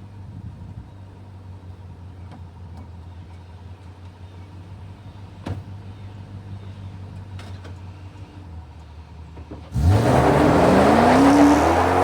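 2013 Toyota Tundra with long-tube headers, 3-inch dual exhaust with an X-pipe and variable-tune mufflers, running quietly at a steady low drone. About ten seconds in, the engine is floored and the exhaust turns suddenly loud, its pitch climbing steeply as it revs up.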